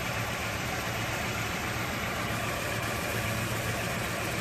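Toyota 4A-GE twin-cam four-cylinder engine idling steadily and smoothly, its ignition timing freshly set by timing light and its idle brought down toward about 800 rpm.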